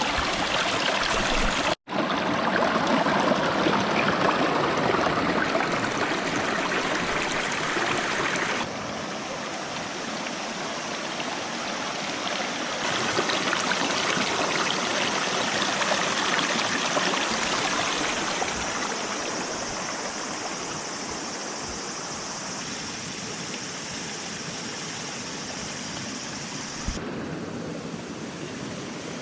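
Flowing water rushing steadily, its loudness and tone shifting abruptly a few times, with a brief dropout about two seconds in.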